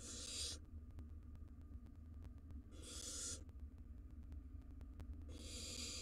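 Barn owl nestlings giving harsh, hissing begging screeches: three separate bursts, each about half a second long, spaced roughly two and a half seconds apart, over a low steady hum.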